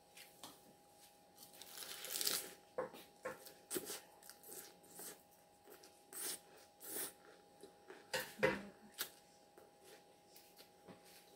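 Close-up eating sounds: mouthfuls of salad crunched and chewed, with scattered sharp clicks of a plastic fork. The loudest crunching comes about two seconds in and again just after eight seconds.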